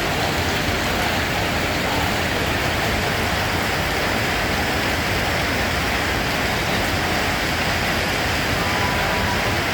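Steady rain falling, an even, unbroken hiss without single drops standing out.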